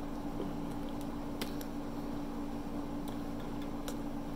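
Close-up mouth sounds of someone chewing stuffed-crust pizza: soft wet smacks and a few sharp clicks, over a steady low hum.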